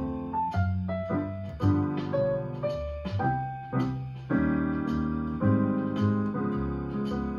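Jazz piano playing chords and single-note melody lines along with a backing track, with a low bass line moving underneath and light regular ticks high above, like a cymbal.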